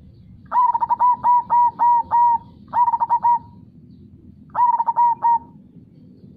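Zebra dove (perkutut) singing its staccato cooing song in three bursts of quick repeated notes. The first burst is the longest, about seven notes; the next two have three or four each. A faint low steady rush runs underneath.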